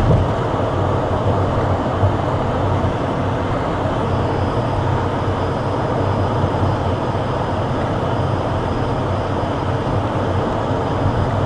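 Steady, loud rumble and drone of a moving vehicle, with a low engine hum and a faint high whine coming in about four seconds in.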